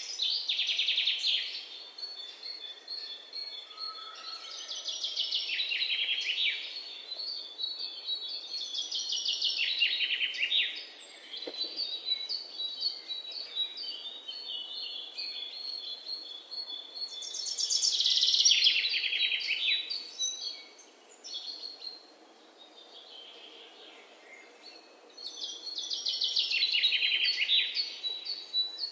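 A bird singing a repeated song: phrases of rapid notes falling in pitch, each about two seconds long, coming every few seconds, with softer high chirps between them.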